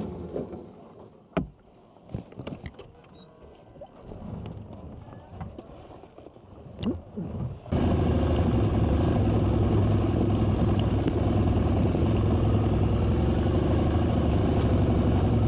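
A few scattered clicks and knocks, then about halfway through a loud, steady engine sound starts suddenly and keeps running.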